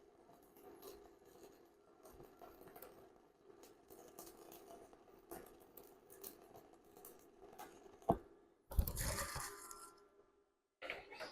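Faint, irregular crackling of a DC stick-welding arc. About eight seconds in there is a sharp knock, followed by a louder scraping, rustling noise for about a second.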